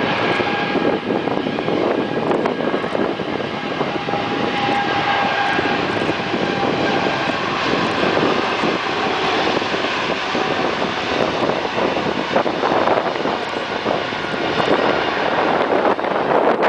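Boeing 777-300ER's GE90-115B turbofan jet engines running at takeoff power: a loud, steady roar with a faint whine running through it.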